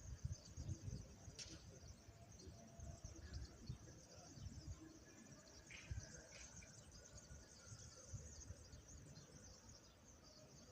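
Faint, steady high-pitched chirring of a crickets' chorus, with a few short bird chirps about six seconds in and a low uneven rumble underneath.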